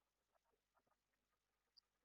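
Near silence, with a few faint soft ticks and a brief high-pitched blip near the end.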